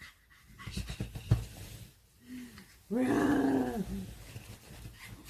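Yorkshire terrier panting, with a brief whine about two seconds in and a louder, longer wavering whine about three seconds in.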